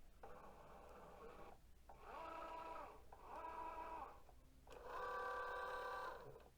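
Cricut Joy cutting machine's stepper motors whirring in four short passes as it draws the mat in and moves it, two of the passes rising then falling in pitch as the motor speeds up and slows down. The longest and loudest pass comes near the end.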